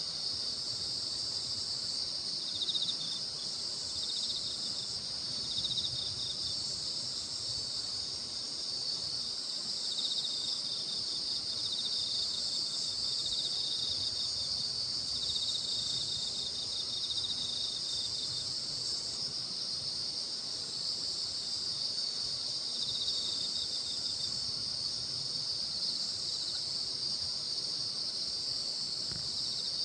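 Chorus of crickets and other grass insects: a dense, steady high-pitched shrill, with shorter trills coming and going over it.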